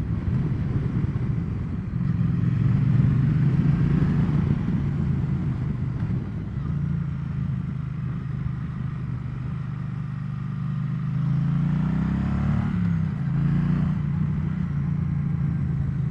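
Triumph Bonneville T100 parallel-twin engine running under way at a steady pace. About twelve seconds in, the revs climb, then drop sharply at a gear change.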